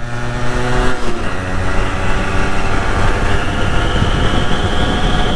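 A 1998 Yamaha RX135's 132cc single-cylinder two-stroke engine running under the rider at speed. Its pitch falls slowly over the first few seconds as the revs ease, with a short break about a second in. A thin high whine joins about three seconds in.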